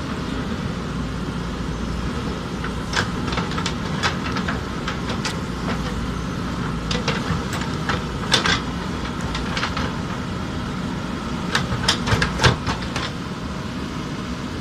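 Diesel engine of a JCB backhoe loader running steadily while it digs, with scattered sharp knocks and clanks on top, the loudest in a quick cluster about twelve seconds in.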